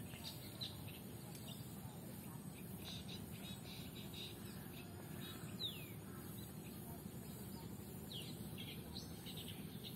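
Birds chirping in short, high notes, with one clear falling whistle a little over halfway through, over faint steady low background noise.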